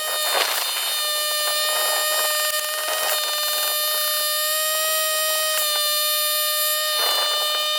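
A power tool's motor running with a steady high whine, with short rasping bursts about half a second in and again near the end.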